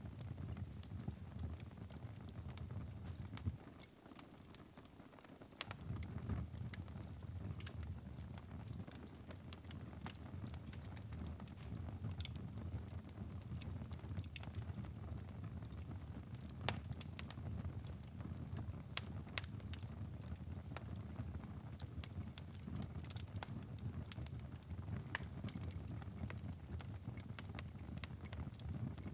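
Wood fire burning in a fireplace: irregular sharp crackles and pops over a low, steady rumble of the flames. The rumble drops away briefly about four seconds in.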